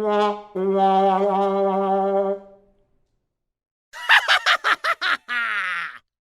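Comedy sound-effect clips: a held, nasal pitched tone lasting about two seconds, then after a pause a quick run of about seven short wavering calls and a last warbling one.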